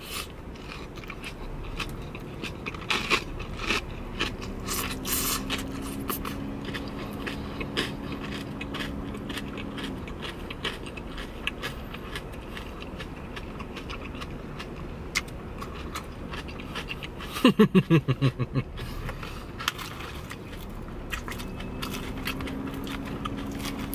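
Crunchy chewing of a mouthful of lettuce salad with croutons, sharp crisp crunches scattered throughout, and a plastic fork scraping in a plastic salad container. A low steady hum comes twice, and about 17 seconds in there is a short loud vocal sound that drops in pitch.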